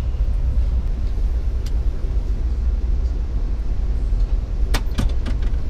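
Steady low rumble of a passenger train running along the tracks, heard from inside the coach car, with a few sharp clicks about five seconds in.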